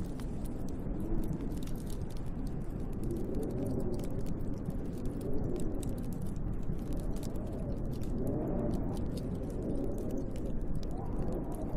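Wood fire crackling with a constant scatter of small sharp pops, over a low howling wind that rises and falls in pitch.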